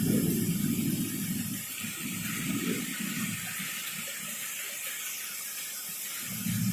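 Heavy rain during a thunderstorm, a steady hiss. A low rumble dies away over the first few seconds and comes back strongly near the end.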